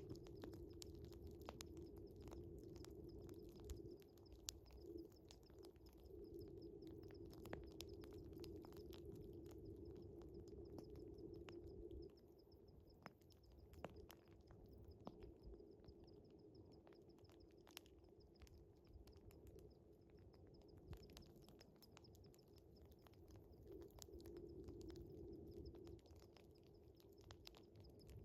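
Wood fire crackling with scattered sharp pops, over a steady pulsing trill of crickets. A low drone under them fades about twelve seconds in and returns near the end.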